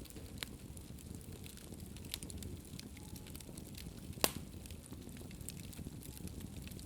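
Wood fire burning in a fireplace: a low steady rumble of flames with scattered crackles and one loud sharp pop about four seconds in.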